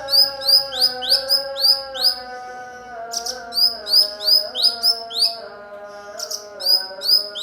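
Cucak cungkok songbird chirping: short rising chirps repeated about three a second in runs, with brief pauses between runs, over a steady humming tone that shifts pitch in slow steps.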